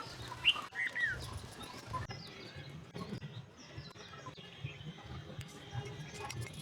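Birds chirping over steady outdoor background noise, with a few short gliding chirps about half a second to a second in.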